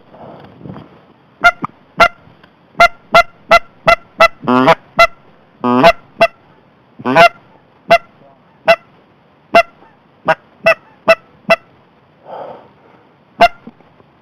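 Goose calling: many short, sharp clucks at an uneven pace, some in quick runs, with three longer drawn honks in the middle.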